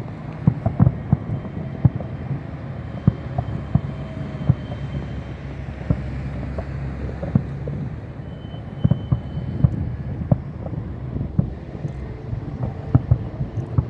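Fireworks going off: many irregular sharp pops and bangs over a low rumble of wind on the microphone.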